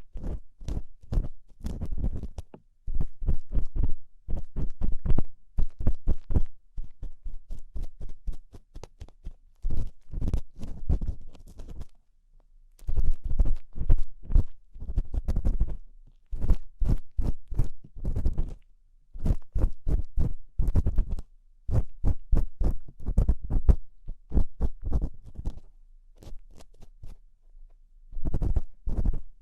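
Ear-cleaning tool scraping and scratching at a microphone's ear, close up: quick clusters of scratchy strokes with dull thumps, several a second, breaking off briefly about twelve seconds in and again near the end.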